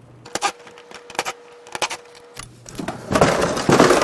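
Sharp clicks and knocks of plastic car interior trim and hardware being handled, then a louder scraping rustle near the end.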